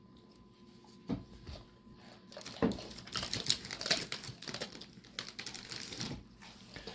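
Basset hound crunching a hard dog treat: a dense run of crisp cracks and crunches from about two and a half seconds in to about six seconds in, after a couple of single soft knocks.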